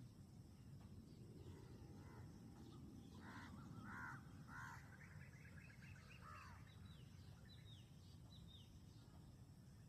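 Faint bird calls: a few short harsh calls a few seconds in, then a run of quick high chirps, each falling in pitch, over a low steady rumble.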